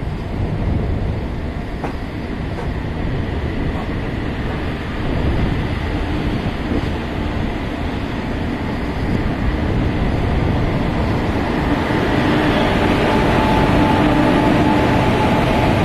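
Passenger train rolling slowly over the tracks: steady rumble of the coach's wheels. Over the last few seconds a steady hum from a standing locomotive close alongside grows louder.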